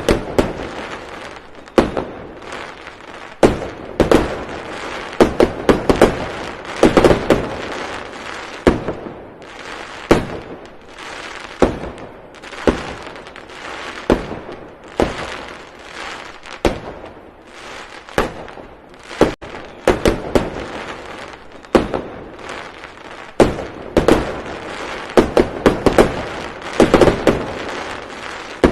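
Repeated sharp bangs at irregular intervals, sometimes several in quick succession, each trailing off in a rumbling echo.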